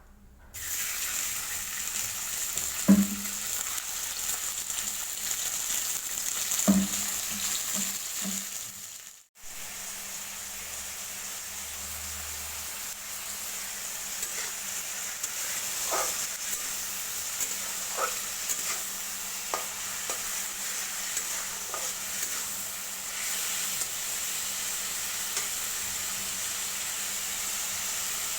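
Food sizzling as it fries in a pan, with a spatula stirring it: two sharp knocks against the pan about 3 and 7 seconds in, and lighter taps later on. The sizzle drops out briefly about 9 seconds in, then carries on.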